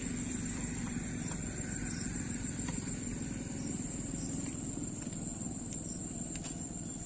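Insects, likely crickets, calling in a steady, unbroken high-pitched drone over a low, steady rumble, with a few faint clicks.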